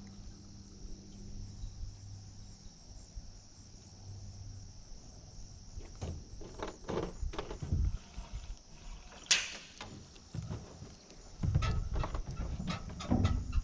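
Scattered knocks and clicks of fishing gear being handled in a boat, with a sharp click about nine seconds in and a run of knocks near the end. A low hum fades out in the first few seconds, and a steady high hiss runs underneath.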